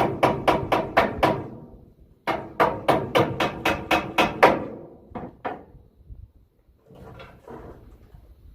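Hammer blows in quick runs, about four a second: a short run, a pause, a longer run of about ten, then two single blows, with fainter knocking near the end.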